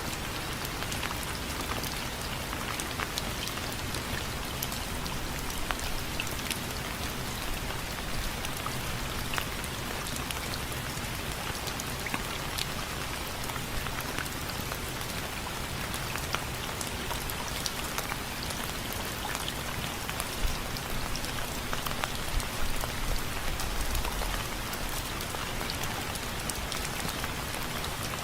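Steady rain, with drops tapping on window frames as many small, sharp ticks over an even hiss, a few of the taps louder later on.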